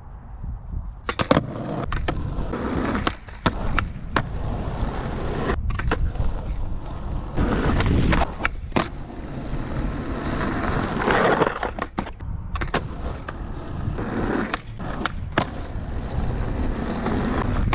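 Skateboard wheels rolling on pavement down a small hill, a steady rumble broken by repeated sharp clacks and slaps of the board, from tricks, landings and the tail hitting the ground.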